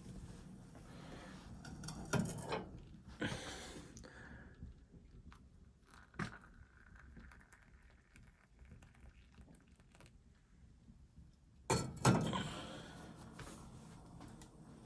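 A few scattered knocks and thunks of things being handled, with a louder double knock about twelve seconds in.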